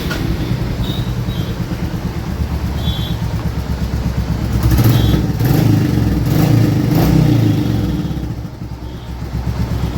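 Royal Enfield Classic 350's single-cylinder engine running and blipped a few times, getting louder for a few seconds mid-way and then settling back. It runs without the abnormal noise it had before the repair: the owner says the noise is gone.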